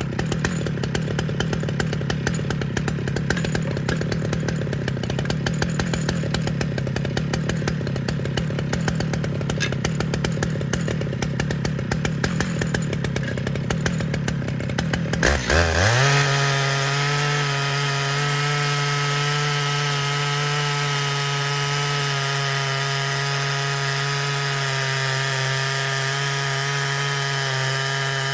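Stihl MS 881 chainsaw cutting through a log in an Alaskan mill, running under load with a rough, wavering tone. About halfway through, the sound changes abruptly to a steady, even engine tone.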